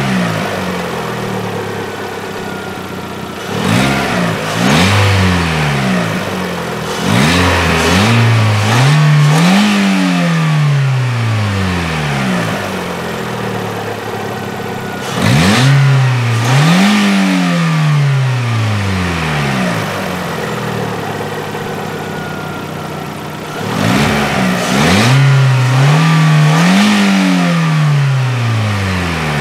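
2016 Lada Vesta's four-cylinder petrol engine revved from idle several times. Each rev rises sharply in pitch and falls back to idle, some as quick blips and some held longer.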